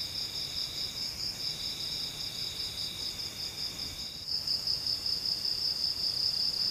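Chorus of forest insects, several steady high-pitched trills at different pitches sounding together. About four seconds in, one of the lower trills stops and a higher one grows louder.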